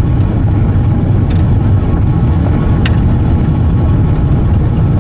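Steady low rumble of road and tyre noise inside the cabin of a Mk4 VW Jetta TDI being towed in gear for a bump-start, its diesel engine not yet running.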